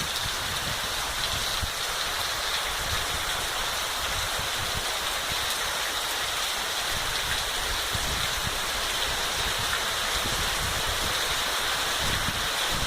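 Rain falling steadily, a dense, even hiss, with an uneven low rumble underneath.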